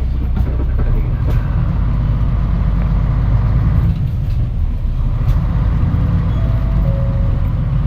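Interior sound of a Mitsubishi Fuso Aero Star KC-MP717 city bus running: a steady, loud low engine rumble with a brief dip about four seconds in.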